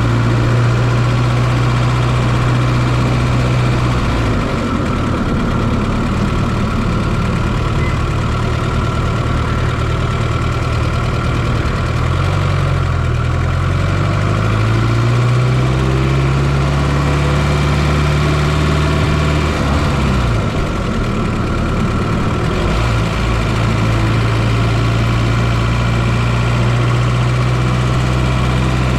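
Fiat Coupe 2.0 16V turbo four-cylinder engine running at around idle, heard from inside the engine bay. Its pitch dips about four seconds in, creeps up for a few seconds midway, then drops back and settles to a steady idle.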